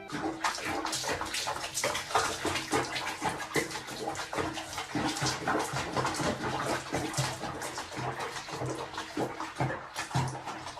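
Water running and splashing in a tub, with a faint low hum coming and going underneath.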